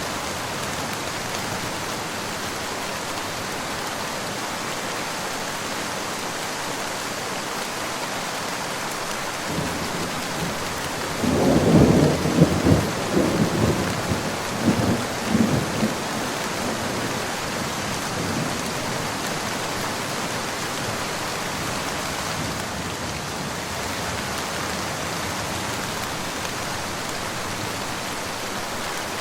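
Steady rain falling, with a roll of thunder that builds about ten seconds in, peaks a couple of seconds later in several low surges, and dies away over the next several seconds.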